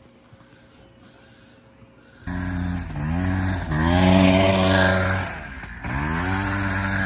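Small off-road vehicle engine cutting in loud about two seconds in. It revs up, dips, climbs higher, then drops and revs up again near the end.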